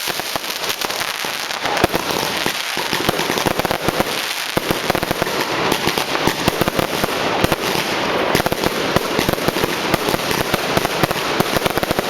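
Many fireworks and firecrackers going off at once: a dense, unbroken crackle of small bangs, growing thicker about two seconds in.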